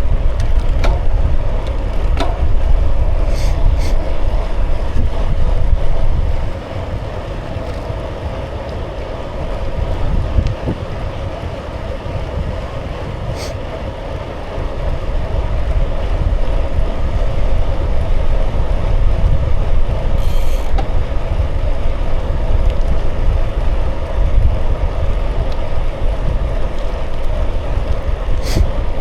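Wind buffeting the microphone on a moving bicycle, over the steady rolling noise of the tyres. The wind eases for several seconds after about six seconds in, then picks up again; a few faint clicks sound throughout.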